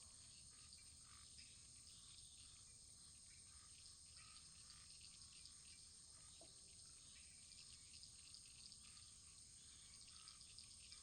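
Wood fire crackling faintly: many small, quiet pops and ticks over a low, steady hiss.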